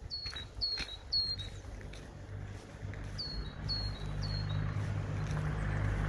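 A small songbird calling in short, slightly falling chirps, two series of three, while a low, steady engine hum grows louder through the second half.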